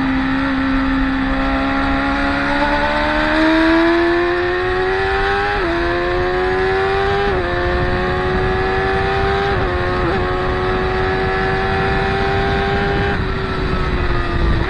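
Racing motorcycles on track, engines revving hard as they accelerate out of a corner. The engine note climbs steadily, then several quick gearshifts each briefly drop the pitch before it climbs again.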